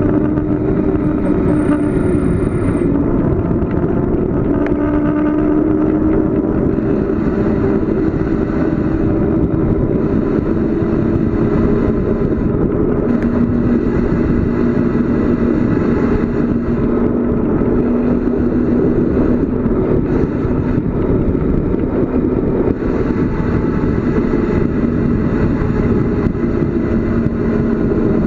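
Steady rush of wind and road noise from a bicycle coasting downhill at speed, with a low wavering hum and a brief thin high whine near the start.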